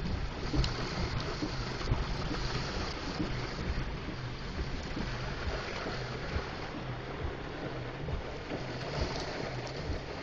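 Vehicle running slowly over a rain-damaged, washed-out driveway: a steady engine hum under rough rumbling noise, with occasional knocks and jolts from the bumps, the loudest about two seconds in.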